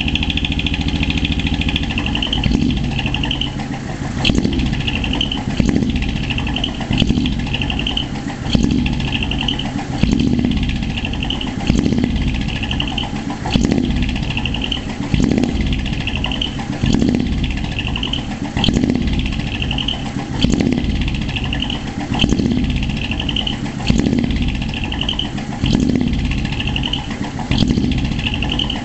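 Small diesel engine of a Toyota 100-series HiAce running through a split-manifold, one-off rear-exit exhaust, a deep low beat that swells about every second and a half to two seconds. A high ringing note pulses along with each swell.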